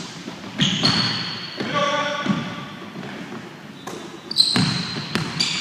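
Basketball game play on a court: a ball bouncing, with several sharp knocks and players' voices in the background.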